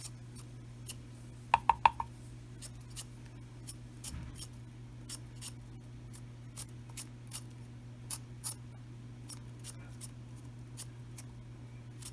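Short sharp scraping clicks, about one or two a second, from a blade working on potatoes, with three louder ringing clinks about one and a half seconds in, over a steady low hum.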